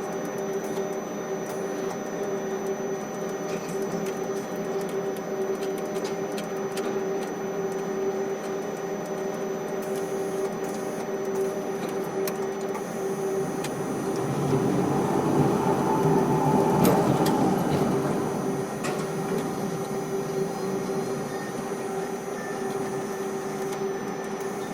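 Steady machinery hum of a ship-to-shore container crane, with several held tones and light clicking throughout. It swells louder and fuller for a few seconds around the middle, then settles back.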